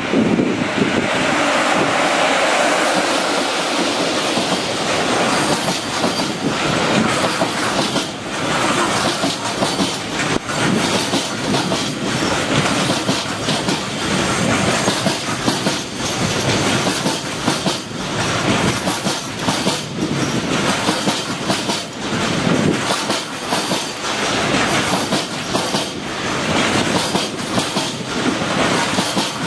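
Freight train passing at speed, its wagons' wheels clicking over the rail joints in a steady run of clacks under the rolling noise.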